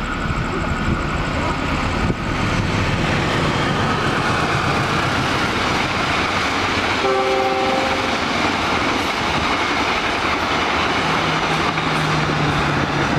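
Train passing at close range, a continuous rumble of wheels and carriages on the rails. A short horn blast sounds about seven seconds in.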